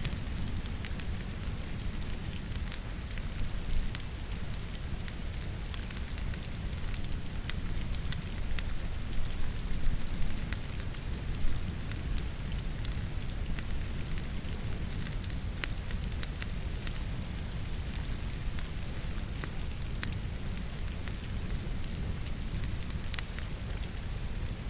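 Wood logs crackling in a fireplace with rain falling: sharp crackles and pops scattered over a steady low noise, with a few louder pops about ten seconds in.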